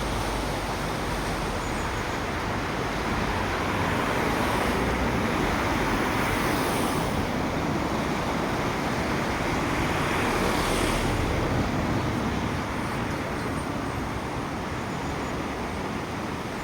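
The Nalón river in flood, its high water rushing in a steady, even roar that swells a little in the middle and eases slightly near the end.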